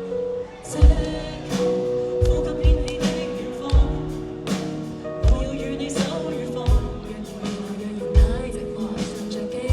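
Live band playing a slow song: sustained chords over irregular kick-drum hits and cymbal strikes, with singing.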